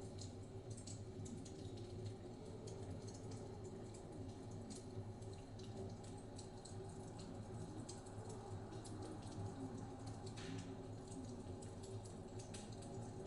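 Wood fire crackling with scattered, irregular small pops over a steady low rumble of blizzard wind.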